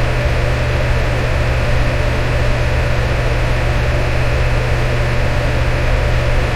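Electric fan running steadily: a constant low hum with an even whooshing hiss of moving air.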